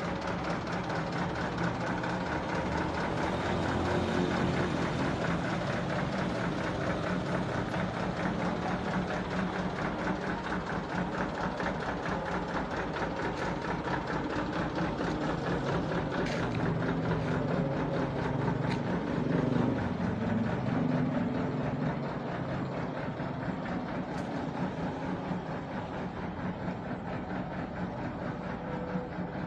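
Mitsubishi Canter HDV 125 PS truck's diesel engine idling steadily.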